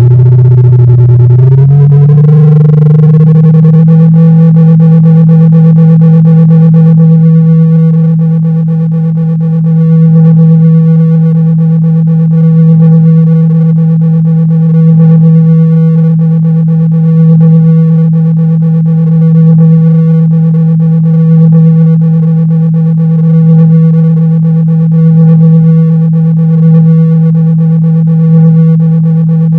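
Loud, buzzy, low electronic test tone of about 162 Hz, a speaker-cleaning frequency played to vibrate the speaker cone and shake out water and dust. It glides up in pitch over the first two seconds, then holds steady. In the second half it swells gently in loudness about every two seconds.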